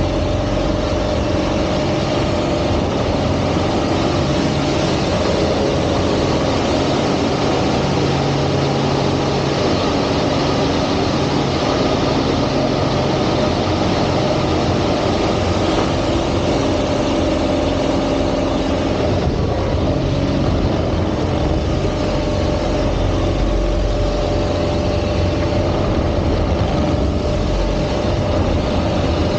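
Piston engine and propeller of a single-engine aerobatic plane running steadily at high power, with a strong steady drone and no pauses.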